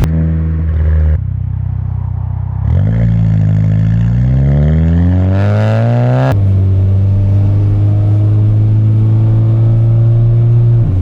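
MK6 VW GLI's turbocharged 2.0-litre four-cylinder running through its exhaust, picked up by a microphone at the tailpipe. About three seconds in, the engine revs up under acceleration with a steadily rising pitch. It then drops sharply as the car shifts up, and pulls on in the next gear with the pitch climbing slowly.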